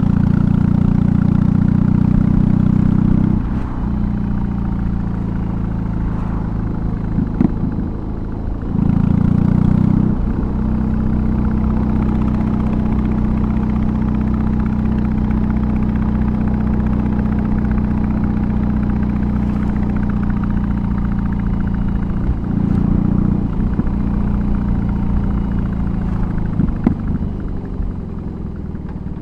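BMW R18's big boxer twin through a custom exhaust, running at a steady pitch while riding. It is louder at the start, drops about three seconds in as the throttle eases, surges briefly twice more (around nine and twenty-two seconds in), and eases off near the end.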